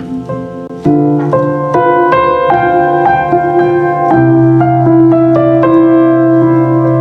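Piano music: a melody of single notes over held chords.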